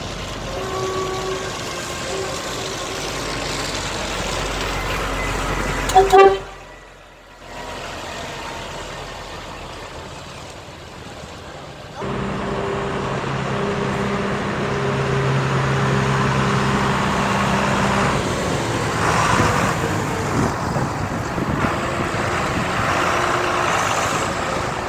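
Trucks running past with their horns tooting, including a long steady horn blast of several seconds about halfway through. A sharp loud knock about six seconds in is followed by a brief hush.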